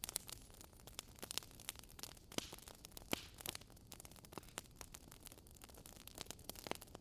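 Wood fire burning in a fireplace: irregular sharp crackles and pops over a low, steady hiss of flames.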